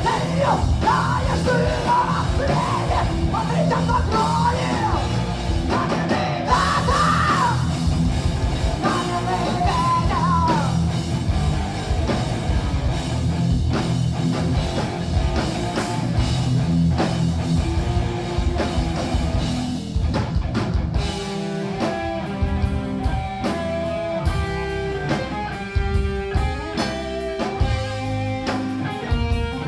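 A heavy metal band playing live, with a singer shouting and singing over distorted guitars, bass and drums through roughly the first ten seconds. From about twenty seconds in, the band carries on without vocals and a guitar plays a melodic line of separate notes over the drums.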